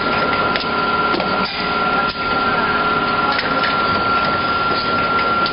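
Fully automatic plastic-bottle-making machine running: a steady mechanical din with a constant high whine and irregular clicks and knocks.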